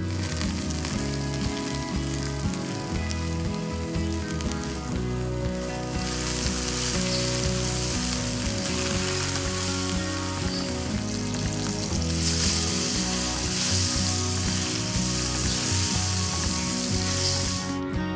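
Sliced button mushrooms sizzling as they fry in olive oil in a pan, their water cooking off. The sizzle grows louder about six seconds in and again about twelve seconds in, then stops just before the end; background music plays underneath.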